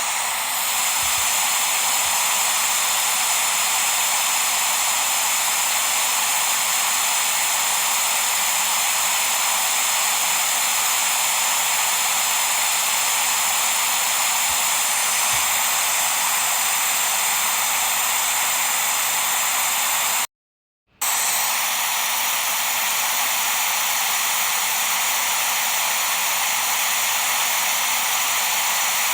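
Steady white noise, a hiss weighted toward the high end with faint steady tones in it. It cuts out completely for about half a second a little past two-thirds through, then resumes unchanged.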